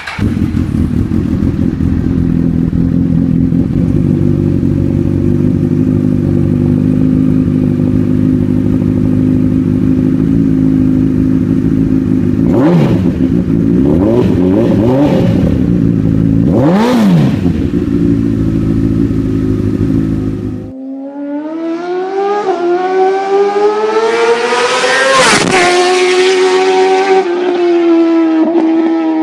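Honda CBR1000RR inline-four with a Two Brothers slip-on exhaust idling low, with three quick throttle blips. About two-thirds of the way through it cuts to another sport bike's engine running higher, its pitch climbing and then dropping sharply.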